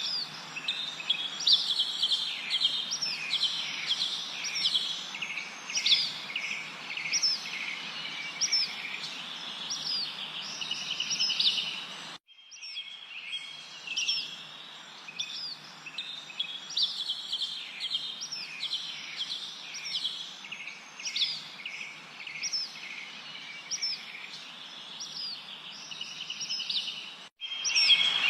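Songbirds chirping: a steady stream of short, high chirps and trills over a constant hiss, with the sound cutting out abruptly for a moment about twelve seconds in and again near the end.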